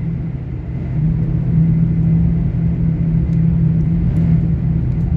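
Class 800 IET train running along the line, heard from inside the passenger coach: a steady low rumble with a constant low hum.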